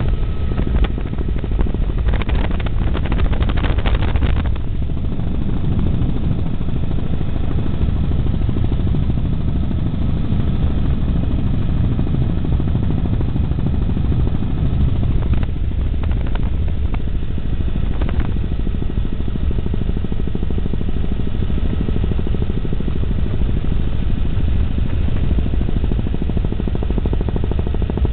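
Helicopter in flight heard from inside the cabin: steady engine and rotor noise with a rapid rotor beat and a faint steady whine, with a brief rise of hiss about two to four seconds in.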